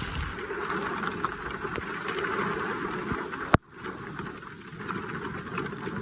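Rain falling: an even hiss of water with scattered tiny drop ticks. A single sharp click about three and a half seconds in, after which the sound briefly drops away.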